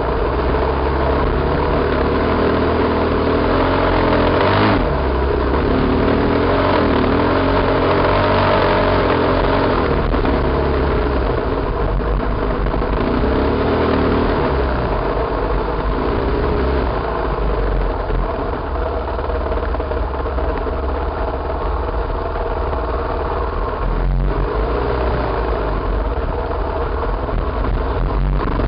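Enduro motorcycle engine running continuously as the bike is ridden over sand, its note rising and falling with the throttle.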